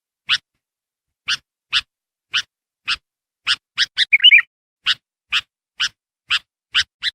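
Sooty-headed bulbul (kutilang) giving a string of short, sharp call notes about twice a second, broken by a quick warbled phrase about four seconds in and again at the end: a lure call used to draw in wild bulbuls.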